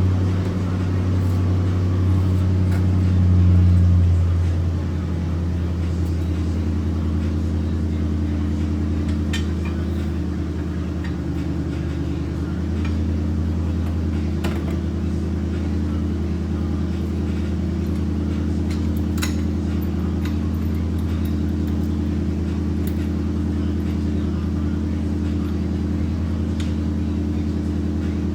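1994 Camaro Z28's LT1 V8 running just after starting, swelling briefly about four seconds in, then settling into a steady idle with the new alternator and serpentine belt fitted.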